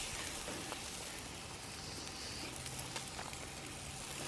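Pepper jack bratwursts sizzling on a grill, a faint steady crackle with a few small pops. They are cooked through and the cheese is oozing out onto the heat.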